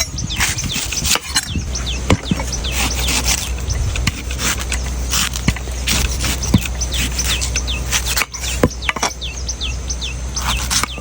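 Knife chopping into a coconut in scattered sharp strikes, with birds chirping rapidly throughout and a steady low hum underneath.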